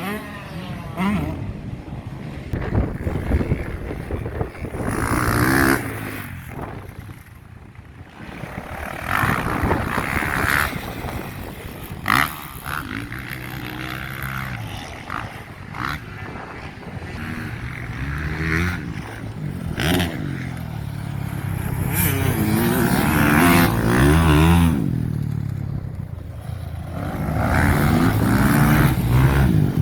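Motocross bikes racing past, several in turn, their engines revving up and dropping back as they shift and take the jumps, each swelling and fading as it goes by. A short sharp click about twelve seconds in.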